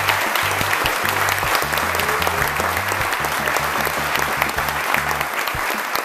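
Audience applauding with many hands, over music with a steady bass line.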